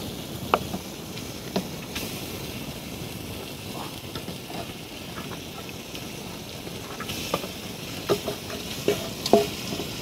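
Marinated chicken pieces being tipped and scraped with a wooden spatula from a steel bowl into a clay pot of hot onion-tomato masala, sizzling steadily, with scattered knocks and clicks of the spatula against the bowl, the sharpest about half a second in and near the end.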